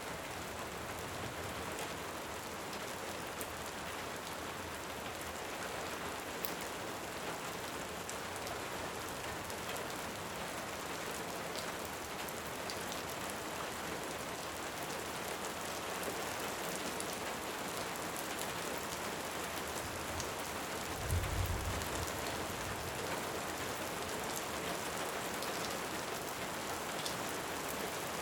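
Steady heavy rain with scattered small crackles of a wood fire. About three-quarters of the way through comes a brief low rumble of distant thunder.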